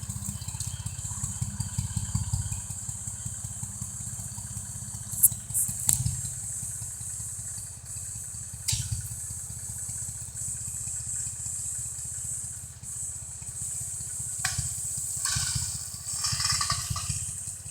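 Tractor engine running steadily, working a homemade dragline, with a few sharp knocks about five, six and nine seconds in.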